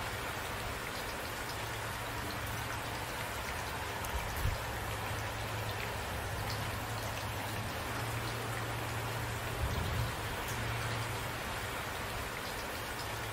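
Steady rain falling, an even hiss with a constant low rumble beneath it and two brief low thumps about four and ten seconds in.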